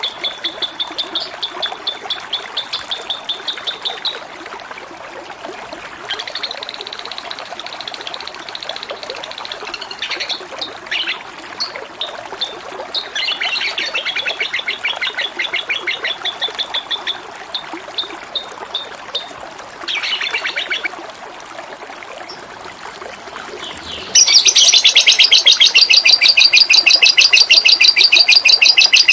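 Small songbirds calling in rapid, repeated chirping trills over a steady trickle of running water. Near the end a much louder, fast trill takes over.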